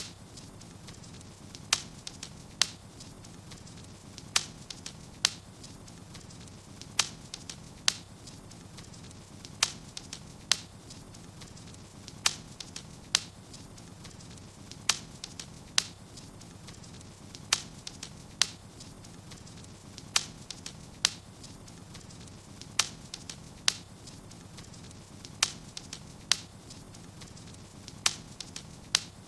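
Wood fire burning in a fireplace: sharp crackles and pops, often in pairs, every second or so over a low steady rustle.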